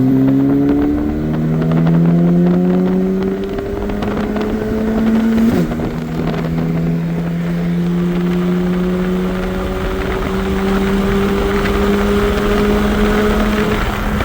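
Big-turbo Audi A3 2.0T engine at full throttle during a roll race, heard from inside the cabin: the engine note climbs steadily and drops back at each upshift, several times.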